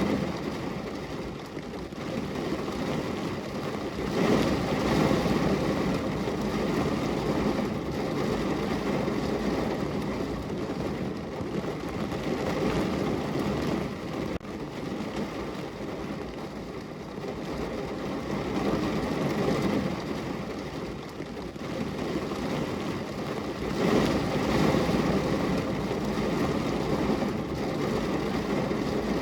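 Heavy rain falling on a car's roof and body, heard from inside the cabin as a dense, steady patter that swells louder twice.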